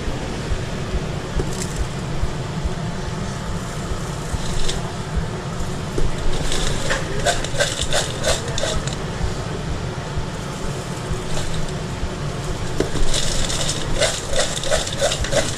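Food truck kitchen work: a steady low hum under bursts of clattering and scraping, in two spells of quick knocks.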